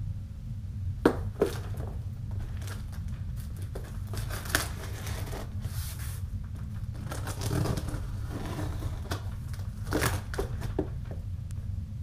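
A cardboard box and its packing being opened and handled by hand: tearing and crinkling with scattered sharp clicks and knocks, over a steady low hum.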